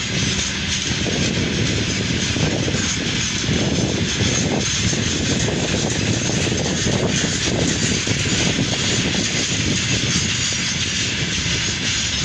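Freight train hauled by a VL10 electric locomotive running past, a steady loud rumble with an even rushing noise over it.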